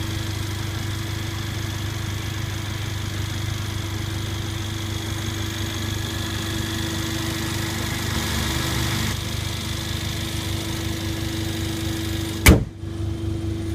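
Mercedes-AMG CLA45's 2-litre turbocharged inline four-cylinder engine idling steadily, with a single loud thump near the end.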